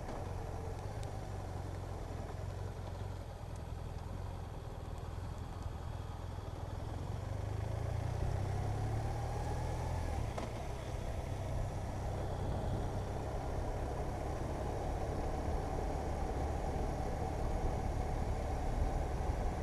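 Motorcycle engine running steadily while riding along a road, its note rising a little about halfway through as it picks up speed.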